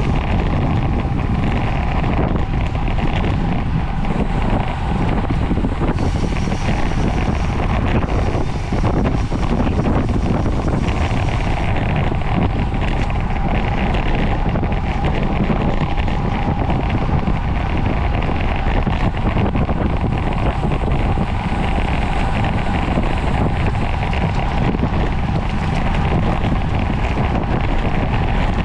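Steady wind rushing over the microphone of a camera carried on a bicycle ridden at speed, loud and unbroken, with a faint steady hum underneath.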